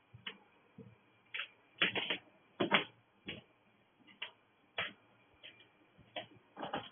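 A series of irregular sharp clicks and taps, about a dozen, some coming in quick pairs.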